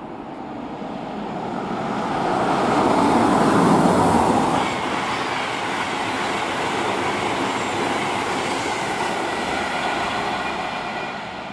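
InterCity 225 electric express, a Class 91 locomotive hauling Mark 4 coaches, passing through at speed. The rush of wheels on rail grows to its loudest a few seconds in as the locomotive goes by, holds steady while the coaches run past, and fades near the end.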